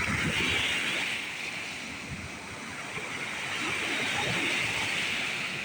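Lake Superior storm waves breaking and washing up the beach, the surf swelling twice, with wind rumbling on the microphone underneath.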